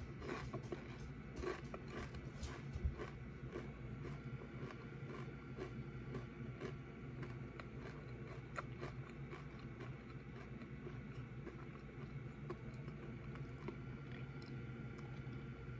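A person chewing a crunchy snack with the mouth closed, close to the microphone: crisp crunches come thick in the first few seconds, then thin out into softer, occasional chewing.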